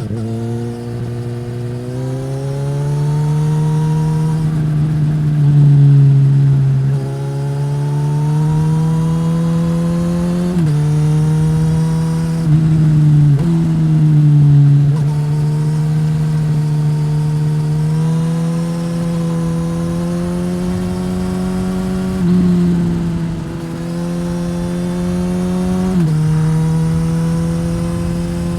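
Suzuki GSX-S1000's inline-four engine through a Yoshimura R-11 slip-on exhaust, ridden at steady mid revs. The pitch climbs slowly under throttle and steps abruptly up or down several times as gears and throttle change. Steady wind and road noise runs beneath it.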